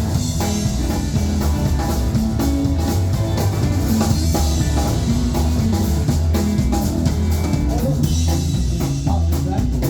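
Live rock and roll band playing a song: drum kit keeping a steady beat under guitar and bass.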